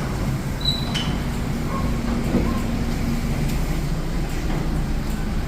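Steady low mechanical rumble of a Mark VII AquaJet XT automatic car wash running, with a faint steady hum over it.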